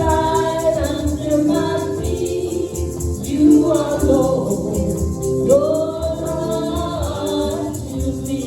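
Gospel music: singing in long held notes over instrumental backing, with shaken percussion keeping a steady beat.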